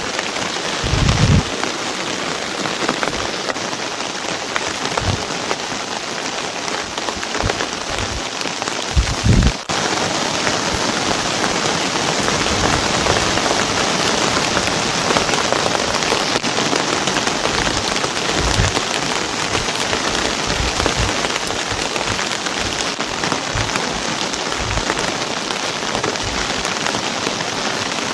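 Heavy rain falling steadily, a dense even hiss, with two brief low thumps about a second in and about nine seconds in; the rain is a little louder after about ten seconds.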